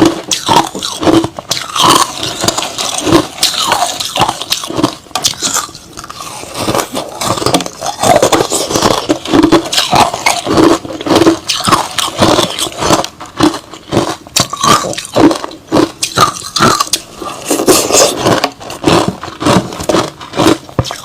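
Crushed ice slush being bitten and chewed close to the microphone: a rapid, irregular run of crunches.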